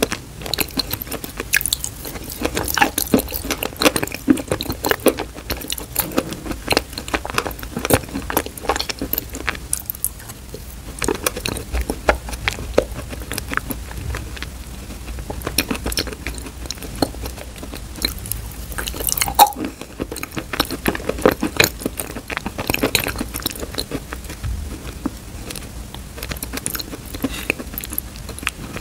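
Close-miked wet, sticky chewing and squishing of thick clay paste in the mouth, with a steady run of small irregular clicks and crackles.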